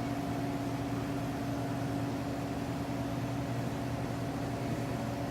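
Steady machine hum: a low drone with a couple of fainter, higher steady tones over an even hiss, unchanging throughout.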